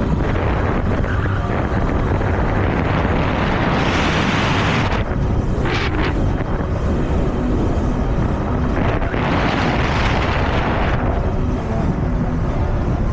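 Wind buffeting the microphone of a moving e-bike rider, a loud steady rush with two stronger gusts, about four seconds in and again around nine to eleven seconds.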